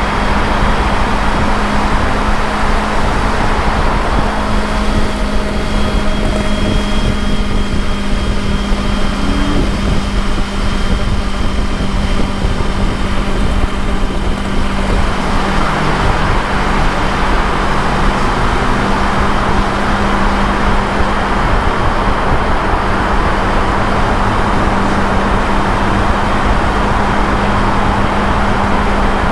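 Motorcycle engine running steadily at highway speed, with heavy wind rush over the microphone. The wind noise eases for a stretch about four seconds in and builds again about fifteen seconds in.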